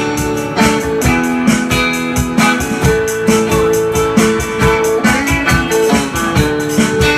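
Rock band playing an instrumental passage: guitar over drums with a steady beat.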